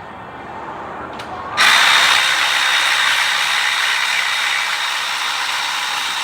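A handheld power tool starts about a second and a half in and runs steadily for about five seconds with a faint high whine, running down a fastener.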